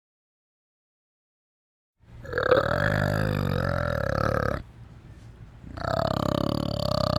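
Two long, low animal calls: the first starts about two seconds in after silence, and the second follows a short break and runs on past the end.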